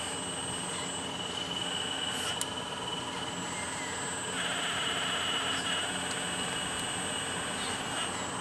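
Small electric motor of a radio-controlled excavator whining steadily, with a louder buzzing stretch about halfway through as it works harder, and one light click.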